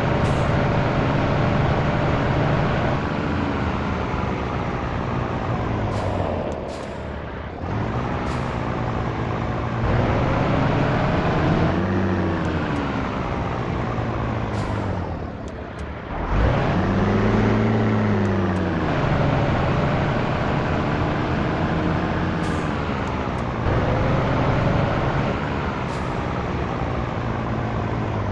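Heavy truck's diesel engine pulling, its pitch climbing and then dropping back several times as through gear changes, with a few brief hisses of air.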